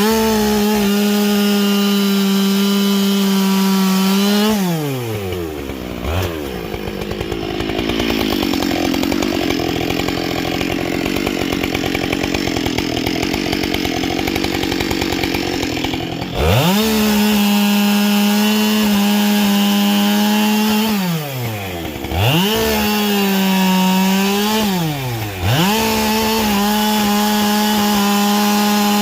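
Husqvarna 572XP two-stroke chainsaw with a carbide-tipped chain, run at high revs, then easing off about five seconds in and running lower and rougher for about ten seconds as it works through wood under load. It then revs sharply back up to a high steady note, with two brief dips in revs near the end.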